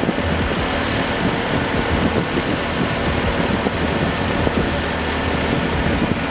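Heavy road vehicle's engine running steadily, with a constant low hum under a wash of noise.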